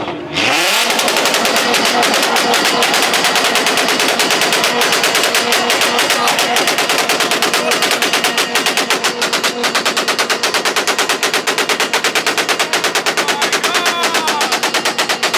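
Car engine held against the rev limiter at high revs, its exhaust cutting in and out in a loud, rapid, even stutter of pops.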